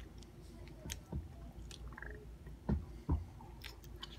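A person chewing a mouthful of chocolate fudge close to the microphone: faint mouth clicks and smacks, two of them louder about three seconds in.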